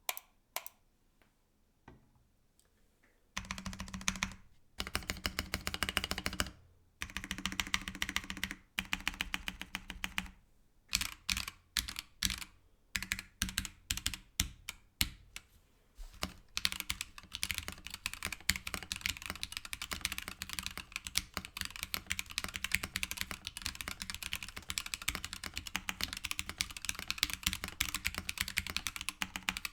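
Typing on a mechanical keyboard fitted with stock, unlubed Gateron CJ linear switches (Ink top housing, POM bottom housing and stem) in a polycarbonate case, giving a clacky keystroke sound. A few single presses at first, then bursts of fast typing, slower separate keypresses in the middle, and steady fast typing through the second half.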